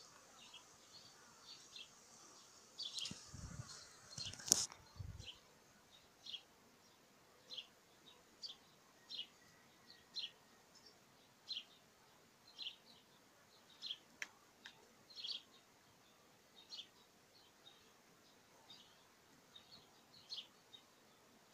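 A bird chirping over and over, a short high call about once a second, against faint outdoor background noise. A few low thumps of the phone being handled come between about three and five seconds in.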